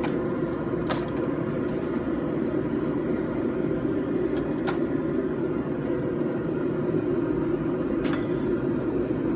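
Forge burner running with a steady rushing noise, with a few faint, scattered clicks.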